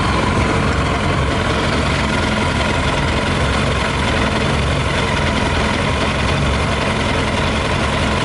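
Yamaha YZF 600R's inline-four engine idling steadily on whisky (40% alcohol) in the tank, running a bit different from normal; the owner thinks a little petrol left in the system is what keeps it going.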